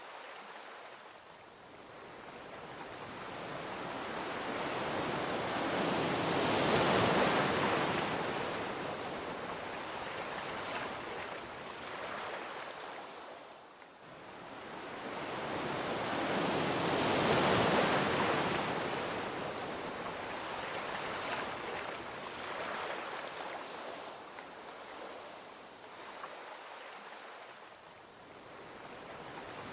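Gentle ocean waves washing onto a beach: two slow swells of surf, about ten seconds apart, each building up and fading out, with another starting to rise near the end.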